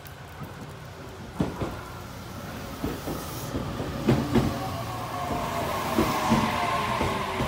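JR Kyushu 815 series electric train running into the platform: wheels knocking sharply over rail joints several times, the sound growing louder. From about halfway, a whine of several tones slowly falls in pitch as the train slows.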